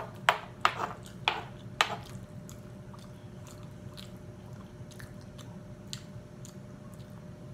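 A person chewing a mouthful of tamale close to the microphone: a run of sharp wet clicks and smacks, loudest in the first two seconds, then softer and more spaced out.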